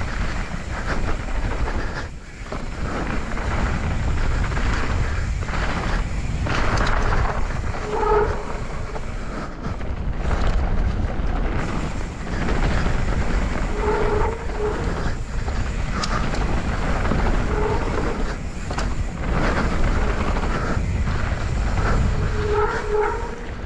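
YT Capra full-suspension mountain bike riding down a dirt trail: tyres rolling and the bike rattling over the ground, with steady wind rumble on the action-camera microphone. Brief pitched squeaks come a few times along the way.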